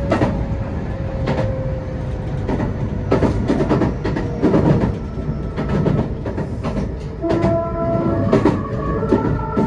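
Meitetsu 2000 series μSKY electric train running, heard from inside the car: wheels clacking over rail joints, with a motor whine falling slowly in pitch over the first few seconds. About seven seconds in, the train's music horn begins, steady tones stepping through a melody.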